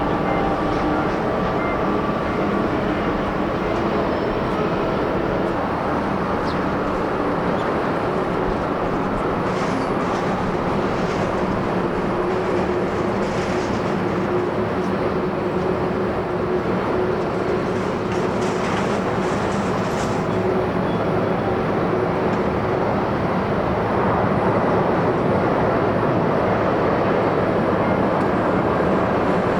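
Jet airliner engines running with a steady rumble and a few held engine tones, getting a little louder near the end.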